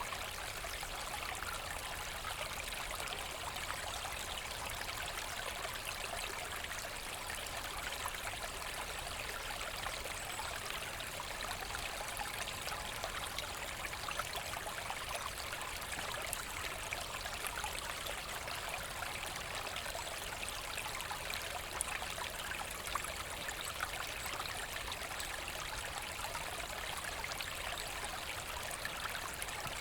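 Forest brook flowing, a steady rush of water over stones with fine splashing and trickling.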